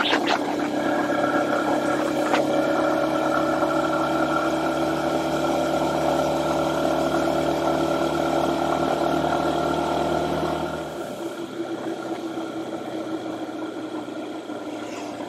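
Honda FTR223's single-cylinder four-stroke engine running steadily while the motorcycle cruises, with wind and road noise over it. About eleven seconds in, the engine note drops away and quietens.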